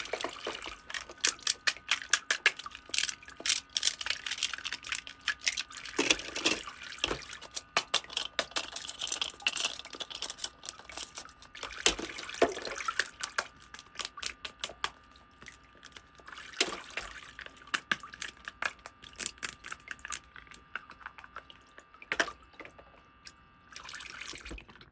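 Small plastic toy pieces being handled, making many quick, irregular light clicks and taps that thin out toward the end.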